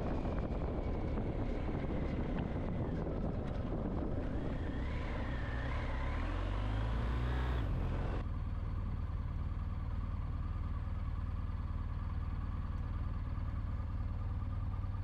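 BMW R1250GS Adventure's boxer-twin engine running while riding, mixed with road and wind noise. About eight seconds in the sound changes abruptly to a steadier, duller engine hum.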